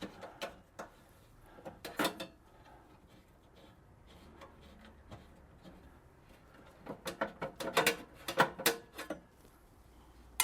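Metal hand tool clicking and knocking against the screws and steel panel of a Stone HX espresso machine as it is unscrewed: a few clicks in the first two seconds, then a quick run of clicks and knocks from about seven to nine seconds in.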